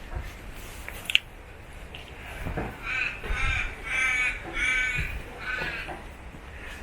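A crow cawing, a run of about five harsh calls in quick succession starting about three seconds in.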